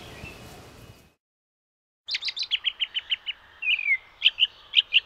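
A bird singing, beginning about two seconds in: a fast trill of about a dozen short chirps, one downward-sliding whistle, then sharp chirps in pairs.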